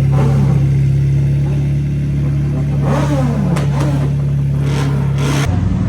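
Car engines at a meet: a steady low engine drone with other engines revving over it, the revs rising and falling shortly after the start and again around three seconds in, followed by a few sharp blips. The drone cuts off abruptly shortly before the end.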